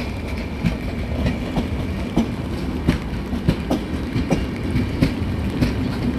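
Coaches of the Bengaluru–Kanyakumari Express passenger train rolling past: a steady rumble with a run of clickety-clack from the wheels over the rail joints, about one to two clacks a second.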